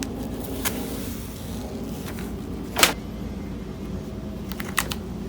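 A few sharp clicks and knocks of small metal parts and screws being handled on the fan's base plate, the loudest near the middle, over a steady low hum.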